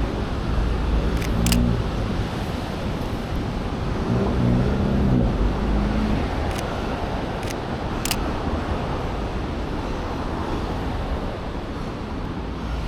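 Road traffic passing: a steady rush of tyres and engines, with the hum of a passing vehicle's engine twice, and a few short sharp clicks.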